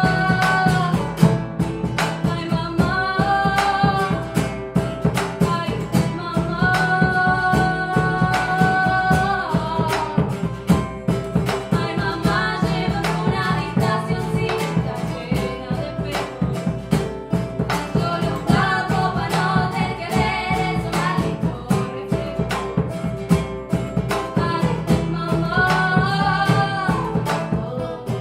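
Live band music: plucked guitar with a female voice singing long held notes.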